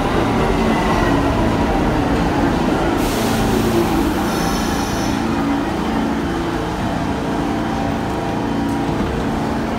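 Train running with a steady rumble. A short hiss comes about three seconds in, and a brief high-pitched squeal follows about a second later.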